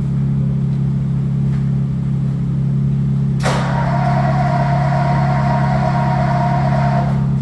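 Car engine idling steadily after a cold start. About halfway through, a steady higher-pitched whine or tone cuts in over the idle and stops a few seconds later.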